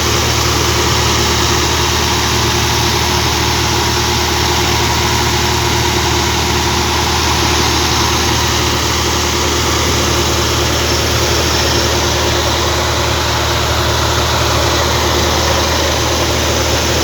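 Engine of a deep-well bore drilling rig running steadily: a loud, even low drone that does not change.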